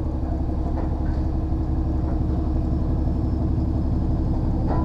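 HGV lorry's diesel engine running steadily at low revs, an even low hum.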